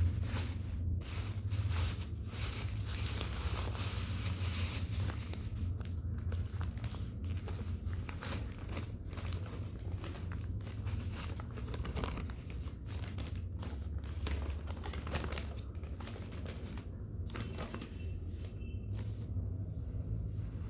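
Irregular crinkling and rustling, many short crackles in a row, over a steady low hum.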